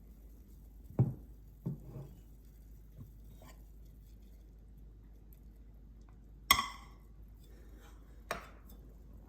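Dishes and utensils being handled: a few scattered knocks, then a sharp ringing clink of dishware about six and a half seconds in, and one more knock near the end.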